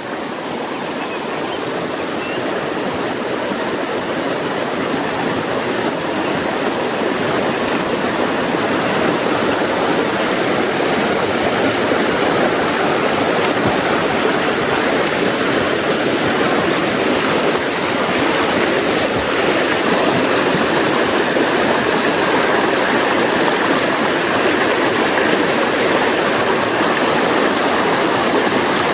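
Mountain creek rushing over rocks, a steady water noise that slowly grows louder.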